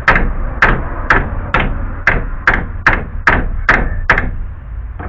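Hammer striking the dented steel cross member of a car's radiator support, about ten blows at roughly two a second with a short metallic ring after each, tapping out a dent to straighten it. The blows stop about a second before the end.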